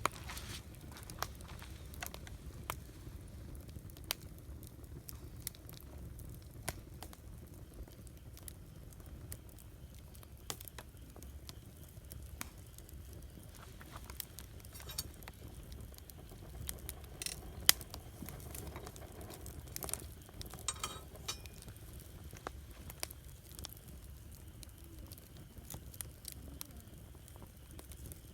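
Wood campfire crackling and popping: scattered sharp snaps at an uneven pace, with the loudest pop a little before the 18-second mark and a quick run of crackles a few seconds later, over a low steady rumble.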